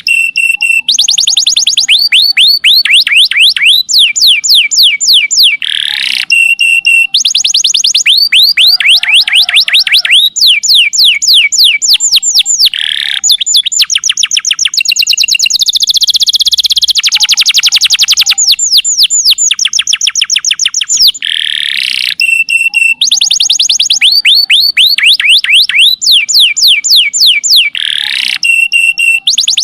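Domestic canary singing a loud, continuous song of fast trills, each a rapid run of repeated sweeping notes, with a denser high held passage near the middle. The same phrases come round again and again.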